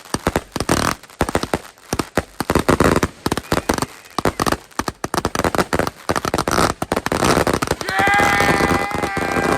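A consumer firework cake firing a rapid barrage of shots and crackling reports, many a second. About eight seconds in, a steady high tone joins the bangs.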